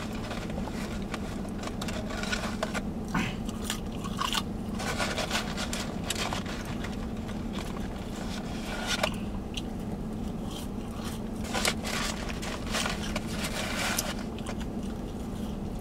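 Close-up eating sounds: french fries being chewed, with the cardboard fries carton scraping and crinkling as fries are picked out, in many small irregular clicks and crackles. A steady low hum runs underneath in the vehicle cabin.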